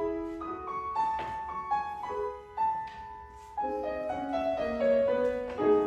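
Piano playing a short instrumental interlude between sung verses of an operetta duet, a melody of separate notes over chords.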